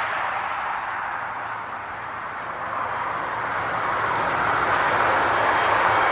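Jet airliner engine noise: a steady rushing sound that dips slightly about two seconds in, then swells louder toward the end as the aircraft comes closer.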